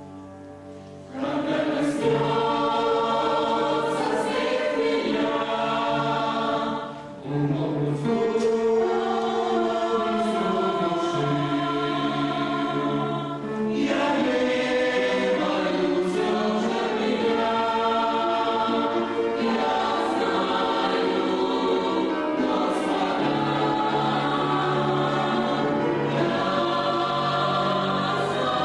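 A vocal group singing a hymn in harmony, coming in about a second in, with short breaks between phrases near seven and thirteen seconds.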